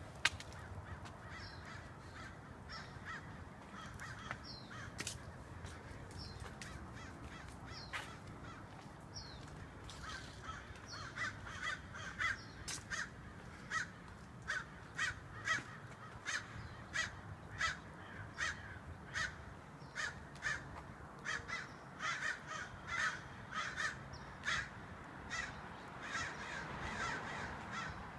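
Crows cawing: a run of repeated caws, about one to two a second, begins about a third of the way in and carries on almost to the end. Before that, short high chirps come about once a second.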